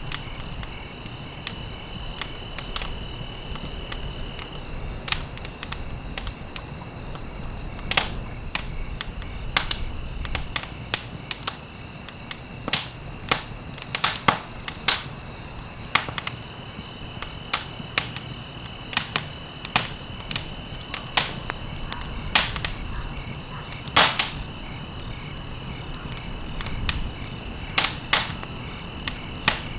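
Wood fire crackling, with irregular sharp pops and snaps over a low rumble of flames. A steady high trill runs underneath, breaking off about four seconds in and returning about sixteen seconds in.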